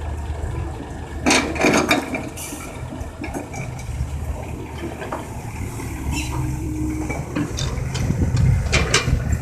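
Komatsu excavator's diesel engine running steadily, with two loud bursts of crushed rock pouring and rattling, one just over a second in and one near the end.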